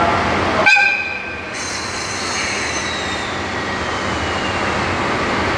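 Train noise at a station: about a second in, the steady low noise suddenly drops away and a high metallic squeal of several tones sets in, one tone then sliding slowly down in pitch.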